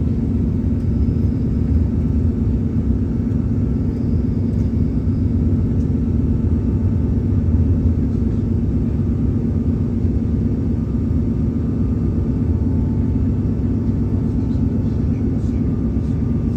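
Diesel passenger train running at line speed, heard from inside the carriage: a steady low rumble of engine and wheels on the rails.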